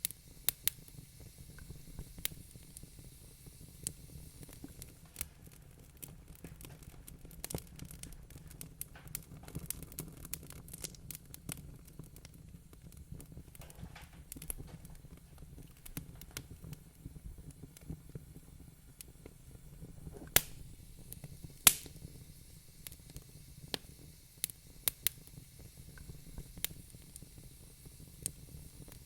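Wood fire crackling in a fireplace: irregular snaps and pops over a low, steady rumble of the burning fire, with two louder pops about two-thirds of the way through.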